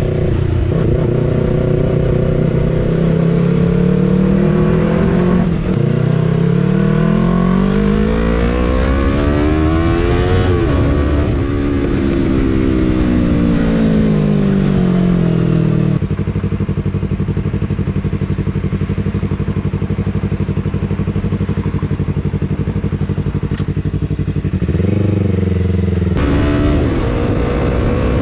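Yamaha R3's parallel-twin engine under way: it revs up with a rising pitch, then winds down as the bike slows. It holds a steady note for about nine seconds, then blips and starts to accelerate again near the end.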